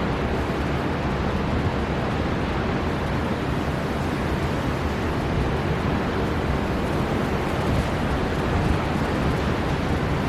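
Strong storm wind blowing steadily over a rough sea, mixed with the wash of surf, a dense unbroken rushing noise with a heavy low rumble.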